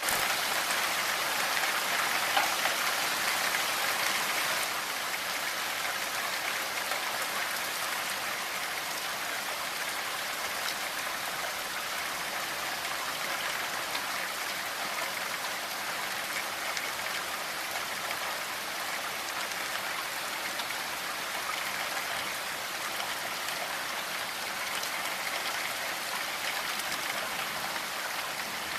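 Steady rainfall: an even hiss of rain with occasional drops ticking on a surface, a little heavier for the first few seconds.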